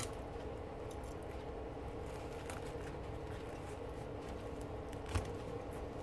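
Faint small clicks and rustling of a sharp knife working insulation off braided copper wire by hand, over a steady low hum; one sharper click about five seconds in.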